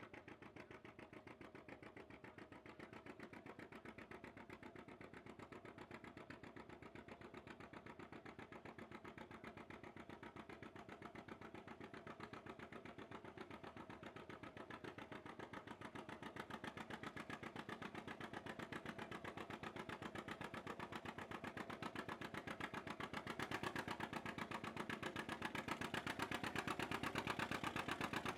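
A vehicle engine running at a steady, fast firing pulse, slowly getting louder, most of all near the end.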